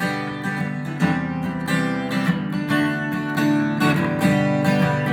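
Jumbo acoustic guitar strummed in a steady rhythm, a short instrumental break between the sung lines of a country song.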